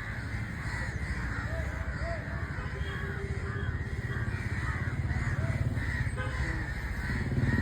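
Several birds calling, with short calls scattered throughout, over a steady low motor rumble that grows louder toward the end.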